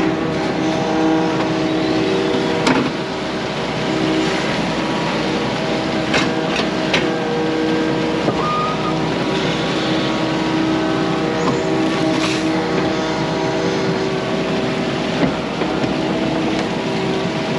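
Yanmar mini excavator's diesel engine running steadily as it digs, with a few sharp knocks.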